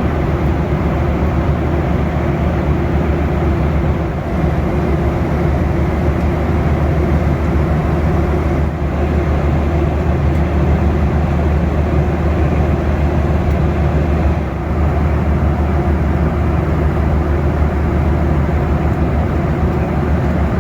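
Steady cabin noise inside a Boeing 737: engine and airflow noise with a strong low hum, dipping briefly twice.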